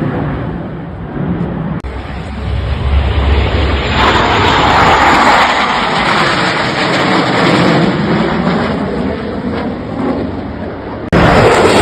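Low-flying aircraft passing overhead, a loud rushing engine noise with slowly falling pitch as it goes by. The sound jumps abruptly about two seconds in, about four seconds in, and near the end, where the recording is cut.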